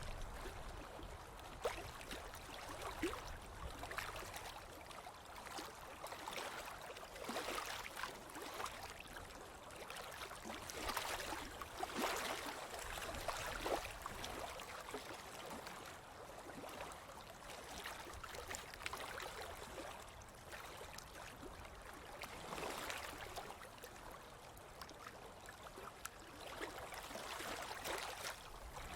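Ocean waves washing onto the shore, the surf swelling and easing every few seconds.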